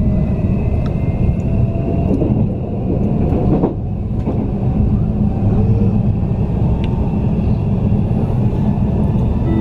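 Odakyu Romancecar limited express train running at speed, heard from inside the passenger cabin: a steady rumble of wheels on rail with a faint whining tone above it.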